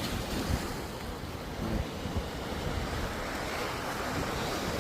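Sea waves washing on the shore in a steady rush, with wind buffeting the microphone in low rumbles.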